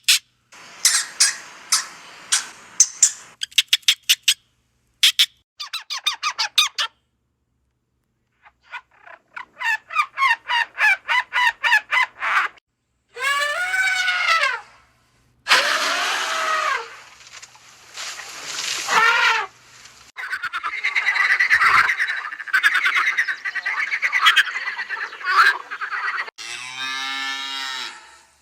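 Animal calls in separate bursts: rapid trains of clicks, then a series of calls that rise and fall in pitch, and a long chattering stretch near the end.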